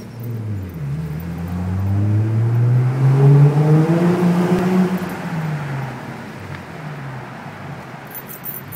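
2010 Ford Mustang's 4.0-litre V6 through a Gibson aftermarket exhaust, heard from inside the car, accelerating with the engine note rising steadily for about four seconds. It then drops back as the throttle eases and settles to a quieter, lower cruise.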